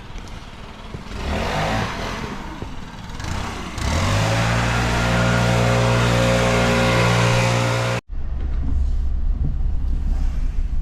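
An engine running at a steady speed, loud and even for about four seconds, then cut off abruptly. A lower, steadier engine hum follows.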